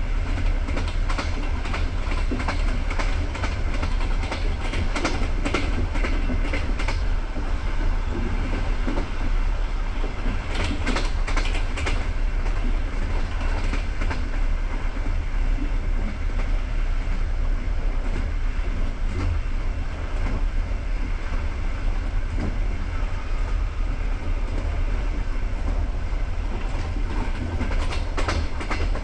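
Passenger train coach running along the track: a steady low rumble of wheels on rails, with clusters of clickety-clack as the wheels pass over rail joints in the first few seconds, again about ten seconds in, and near the end.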